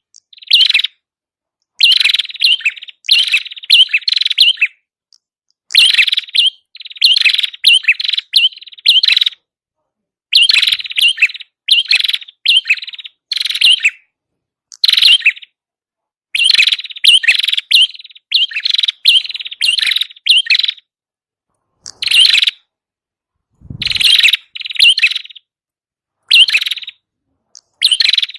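Prenjak kepala merah song played as a lure recording: loud, rapid chirping phrases in quick bursts with short pauses between them. A brief low thump comes about three-quarters of the way through.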